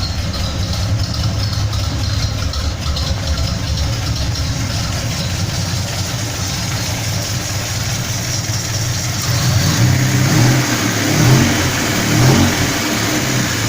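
Car engine idling through a homemade dual exhaust, its Y-pipe split to exit on both sides. Near the end the throttle is blipped about three times, each rev rising briefly above the idle.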